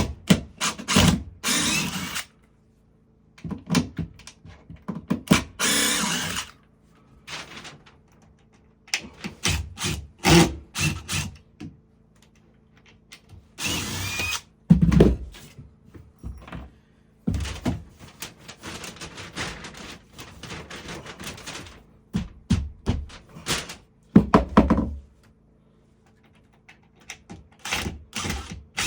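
Carpentry work on wooden framing: repeated wooden thunks and knocks as lumber is handled and fitted, with several short spells of tool noise.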